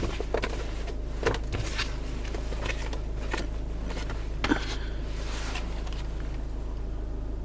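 Handling of the owner's manual and glove box in a car's cabin: scattered light clicks, knocks and a brief rustle about five seconds in, over a steady low hum.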